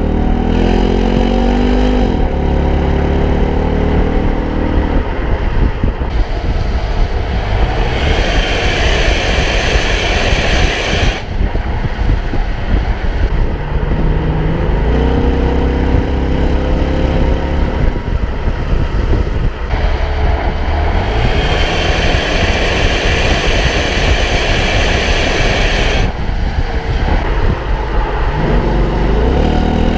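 Ford Mustang engine accelerating under load. The revs climb and drop back several times, as at gear changes, with loud stretches of engine and exhaust noise in between.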